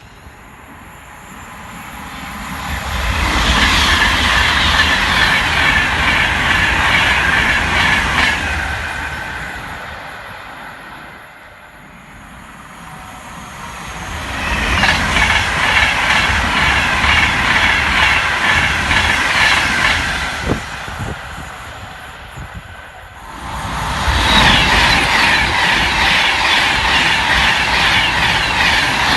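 High-speed passenger trains passing at speed, three in turn. Each swells to a loud rush with a rapid rhythmic clatter from the wheels on the track, holds for several seconds, then fades.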